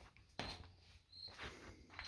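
Near silence, with a soft knock about half a second in and a few faint, short, high-pitched chirps.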